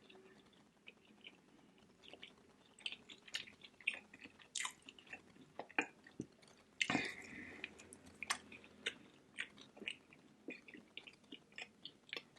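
A person chewing and smacking their lips while eating barbecue ribs: scattered short wet clicks and smacks, with a louder smack about seven seconds in.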